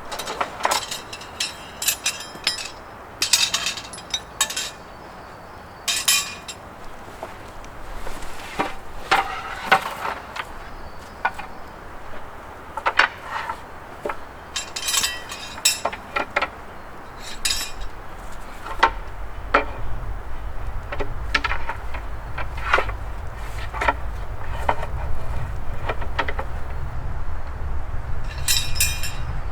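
Scattered clinks, knocks and clatters of camping gear being handled, a few sharp strikes a second at times, with a low rumble building over the last third.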